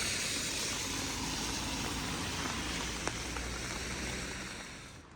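A road vehicle passing by: an even rush of tyre and engine noise with a low rumble, fading away near the end.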